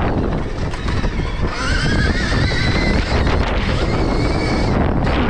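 Stark Varg electric motocross bike's motor whining while riding, the high whine climbing in pitch about a second and a half in as it accelerates and easing off near the end, over heavy wind buffeting on the microphone and tyre and track rumble.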